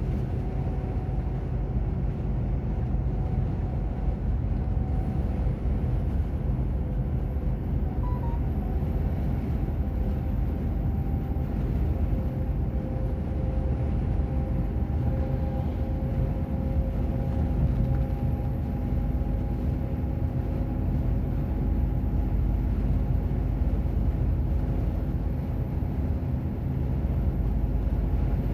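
Truck on the move: a steady engine drone under road rumble, with a faint engine tone that drifts slightly in pitch.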